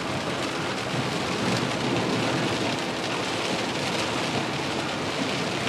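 Heavy rain beating on a car's roof and windshield, heard from inside the cabin: a steady, dense hiss and patter.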